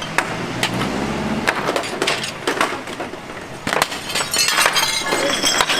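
Glass and debris being smashed during demolition of a street booth: a string of sharp breaking impacts with clinking glass. A low engine hum rises briefly about a second in.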